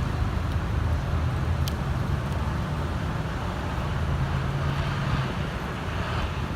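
Road traffic with a nearby vehicle engine idling, a steady low hum that eases off near the end. One short click is heard about a second and a half in.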